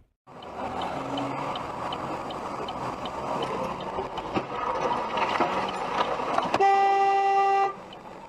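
Steady vehicle driving noise with a faint regular ticking. Near the end a car horn sounds one steady blast lasting about a second.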